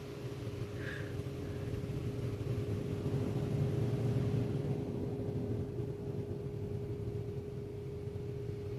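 Automatic vehicle wash machinery running: a steady mechanical hum with a low rumble that swells toward the middle and then eases off, and a brief faint chirp about a second in.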